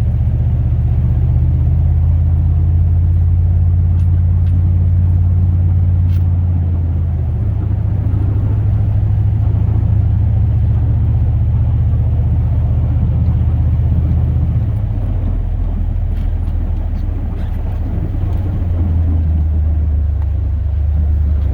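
The 8.1-litre big-block V8 of a 2002 Chevrolet Silverado plow truck running steadily under way, heard from inside the cab as a low drone. Its pitch shifts about seven seconds in and again about fifteen seconds in.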